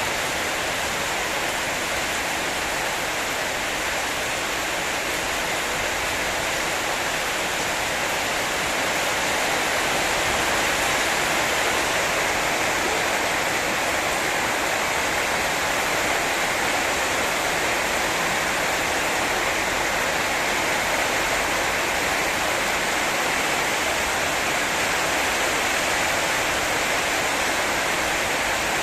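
Heavy rain falling in a steady downpour, a dense even hiss that grows slightly louder about ten seconds in.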